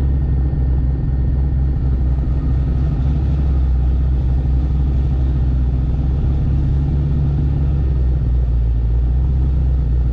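Turbocharged car engine droning steadily at an even cruising speed, with road and tyre noise, heard from inside the cabin.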